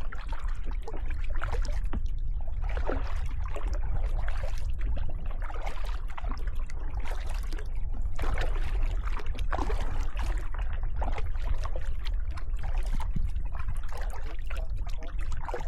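Kayak paddling: paddle blades splashing and water dripping off them with each stroke, irregularly, over a steady low rumble of wind on the microphone.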